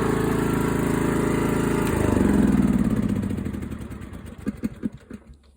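Riding lawn tractor's single engine running steadily, then winding down and stopping about three to four seconds in: the engine dying, typical of this mower being shut off by its safety interlock when put in reverse, which the owner puts down to a worn PTO cable that no longer makes the PTO switch.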